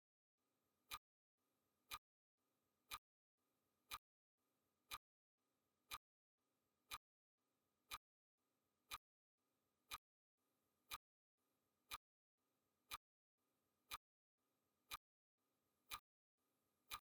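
Faint clock-ticking sound effect, one sharp tick each second, marking the seconds of a countdown timer.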